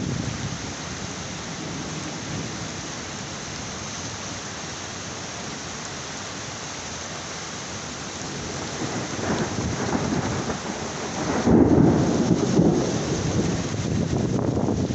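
Heavy rain falling steadily. About nine seconds in, a rumble of thunder builds, is loudest about two-thirds of the way through, and rolls on to the end.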